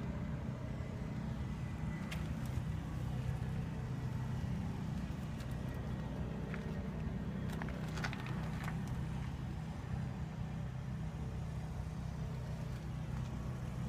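Heavy diesel engine idling steadily, with a few faint clicks.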